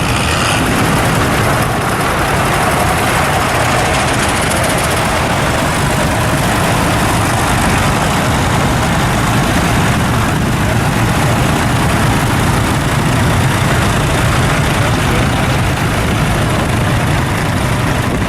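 Vintage tractor engine running steadily at idle.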